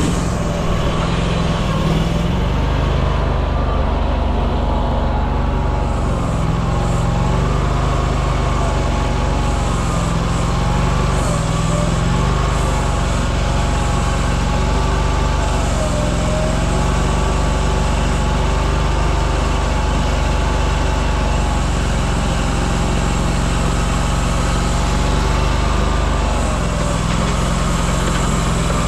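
A motor vehicle's engine running steadily under way: a strong low drone with a faint whine that slowly rises and falls in pitch.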